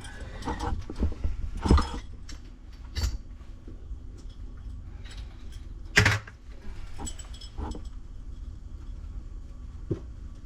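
A few sharp knocks and clinks of metal plumbing fittings and tools being handled, the loudest knock about six seconds in, over a low steady hum.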